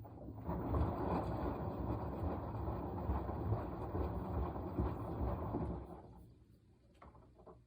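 Washing machine drum turning during the wash cycle, tumbling wet laundry with a churning rumble for about five seconds before it stops. A few faint clicks follow near the end.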